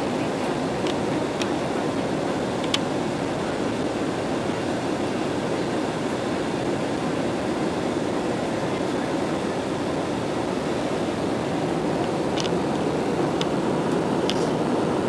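Airbus A320 jet airliner noise: a steady, even rush of engines and airflow, with a few faint clicks scattered through it.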